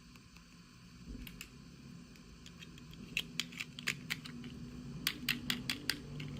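Hands handling small plastic miniatures and packaging: a run of quick, sharp clicks and taps, bunched in two clusters, one about three seconds in and one about five seconds in.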